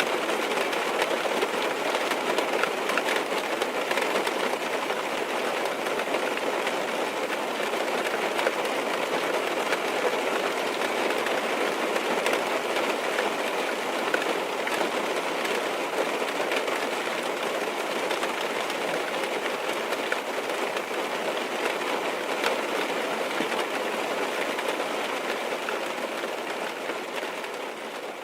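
Heavy rain pattering steadily on a car's roof and windows, heard from inside the car as a dense spray of tiny drop taps. It begins to fade out near the end.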